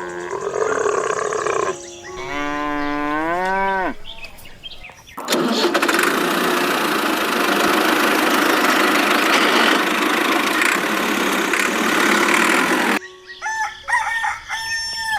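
A rooster crowing over the first few seconds, then a loud steady hiss-like noise for about eight seconds that stops suddenly, then short high chirps near the end.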